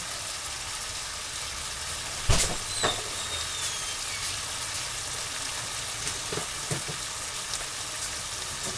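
Food sizzling steadily in a frying pan, with a sharp knock about two seconds in and a few lighter clicks.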